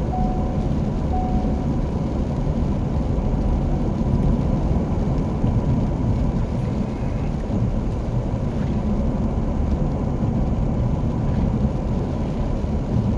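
Steady low rumble of a car being driven, heard from inside the cabin. A short beep repeats about once a second during the first second and a half.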